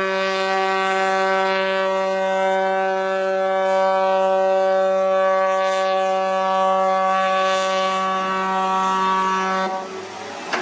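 A ship's horn sounding one long, steady blast that cuts off near the end.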